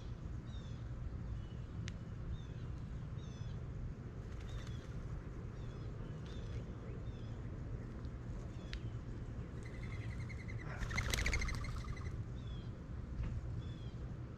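Small birds chirping at a feeder: short falling chirps repeat every half second to a second. About ten seconds in comes one louder call lasting about two seconds, over a steady low rumble.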